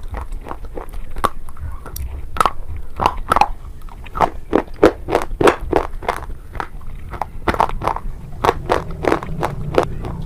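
Close-up crunching as a person bites and chews a hard, brittle item, with many sharp, irregular crunches, several a second.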